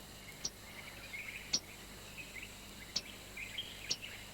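Malachite kingfisher calling: four short, sharp, high calls about a second apart, with soft chittering between them.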